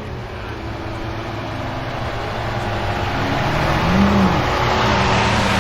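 Lamborghini Aventador S's 6.5-litre V12 running at a fairly steady pitch, growing steadily louder as the car nears, with a brief lift and fall in engine pitch about four seconds in.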